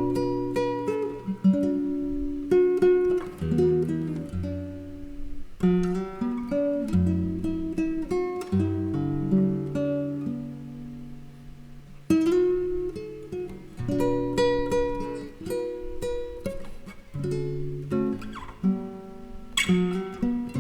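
Jazz guitar duo of a nylon-string flamenco guitar and a Fender Telecaster electric guitar, playing plucked single notes and chords over held low notes.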